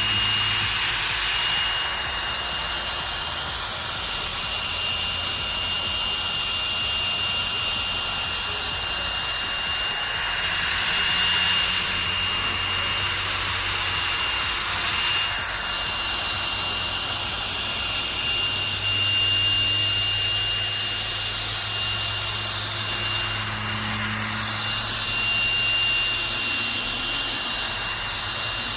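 Electric drill running steadily with a high whine, driving a compounding pad over a plastic headlight lens. Its pitch dips and recovers a few times.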